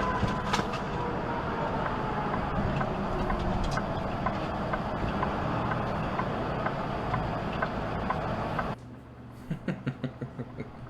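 Dashcam recording of a vehicle on the highway: steady road and engine noise, with a faint falling whine over the first few seconds. The noise cuts off abruptly near the end, followed by a quick run of soft knocks.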